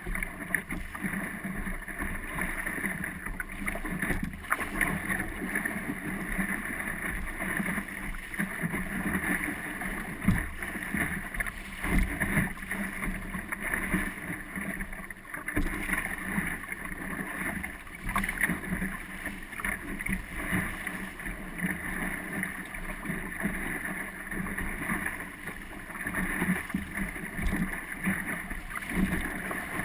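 Wind rushing over the microphone and water washing along the hull of a small sailing dinghy under way, with a few brief knocks from the boat.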